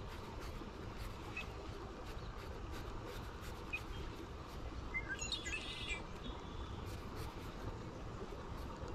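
Quiet outdoor ambience: a low steady rumble with a few scattered bird chirps, and a short run of bird calls about five seconds in.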